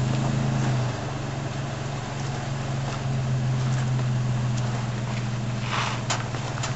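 Nissan Frontier pickup engine running steadily at low revs while crawling over rocks, a little louder for the first second. Near the end there is a short rasp and a click.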